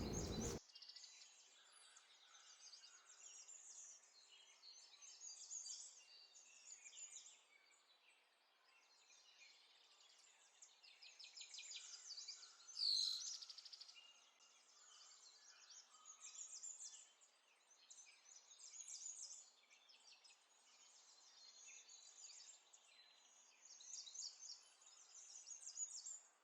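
Near silence with faint, scattered bird chirps in the background. One clearer, downward-sweeping call comes about halfway through.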